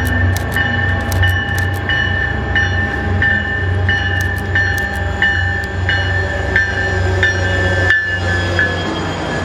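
Diesel freight train running close by, its engine giving a steady low rumble, while a bell rings evenly about every two-thirds of a second and falls silent near the end.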